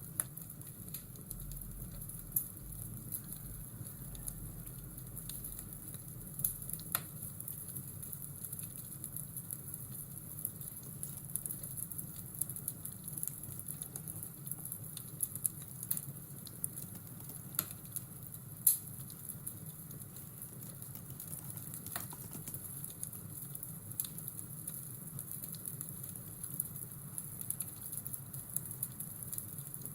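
Fireplace ambience: a wood fire crackling, with scattered sharp pops, over a steady low hum.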